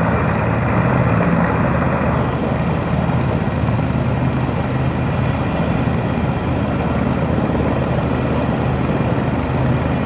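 Erickson S-64 Air Crane heavy-lift helicopter, its twin turbine engines and rotor making a steady, loud, low drone.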